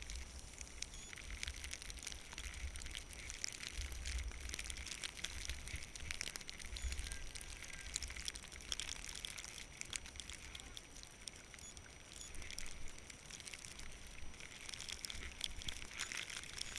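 Skis hissing and crackling as they slide over snow, with wind buffeting the microphone in a low, gusting rumble.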